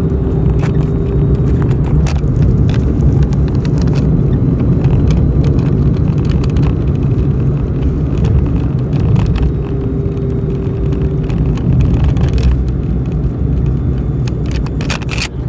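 Car road noise: a steady, loud low rumble with scattered small knocks. Twice a faint held humming tone sits on top, a voice toning.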